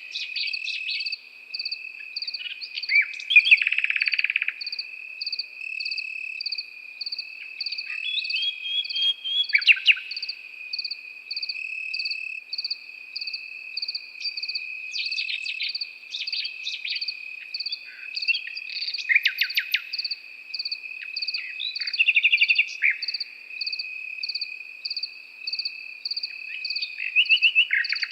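A nightingale singing in short phrases of rapid repeated notes and trills every few seconds, over crickets chirping in an even, steady rhythm and a continuous high insect trill.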